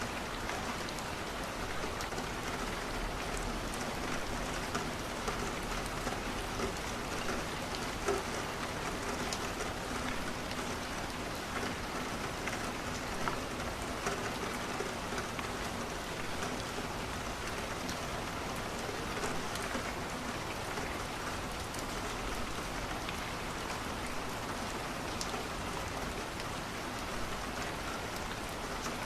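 Steady rain on a window, with scattered faint ticks through it.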